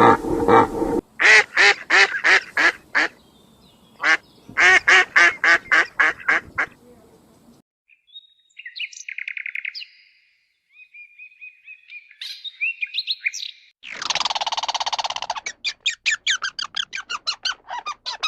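Bird calls in several sets: runs of rapid, evenly repeated calls, softer chirps and trills in the middle, and one longer harsh call a little past halfway.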